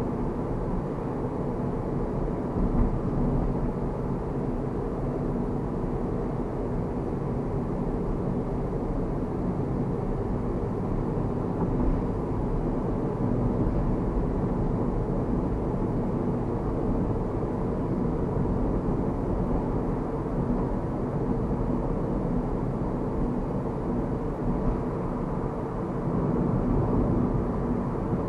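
Steady road and engine drone of a 2009 Mazda Verisa's 1.5-litre four-cylinder while driving, with a few faint knocks from the road.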